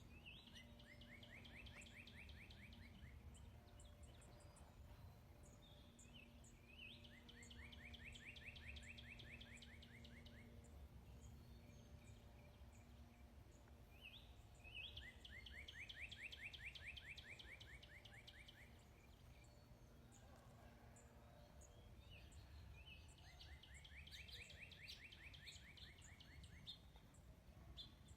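A songbird singing a fast trill of rapid repeated notes, each song about three seconds long, given four times roughly seven to eight seconds apart, over a faint steady low rumble of background noise.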